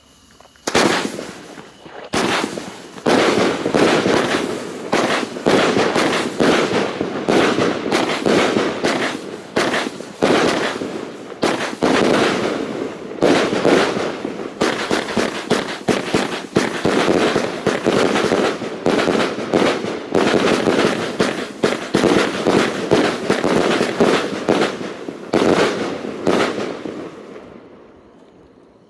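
Blitzgewitter fireworks going off: a dense, continuous barrage of cracks and bangs that starts about a second in, keeps up for roughly 26 seconds, and thins out near the end.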